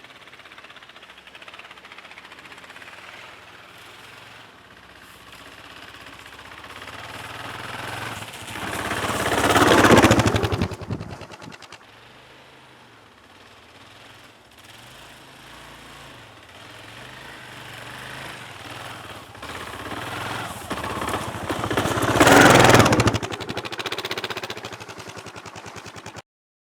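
Single-cylinder engine of a 2009 Kawasaki KLR 650 motorcycle running with a rapid even thumping. It swells to a loud peak twice, about ten seconds in and again about twenty-two seconds in, then cuts off suddenly near the end.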